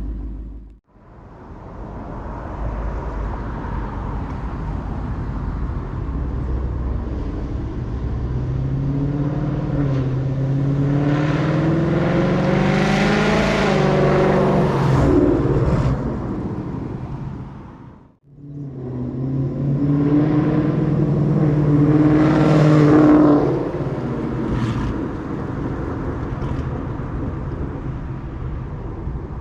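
Ford Mustang's 5.0 V8 running through long-tube headers, an H-pipe and a Corsa active-valve exhaust, heard in two drive-bys. In each one the exhaust note climbs in pitch as the car accelerates past, then eases off. The second pass is the louder.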